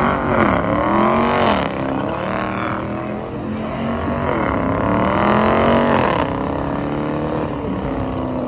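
Car engine revving hard during donuts and a burnout, its pitch rising and falling repeatedly as the throttle is worked, with tire noise from the wheels spinning on the pavement.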